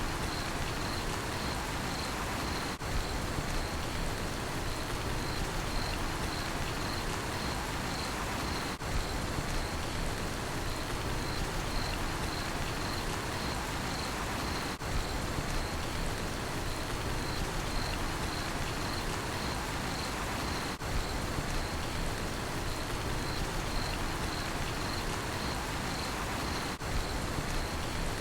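Steady rain falling with crickets chirping in an even, rapid pulse over it. The sound dips briefly about every six seconds.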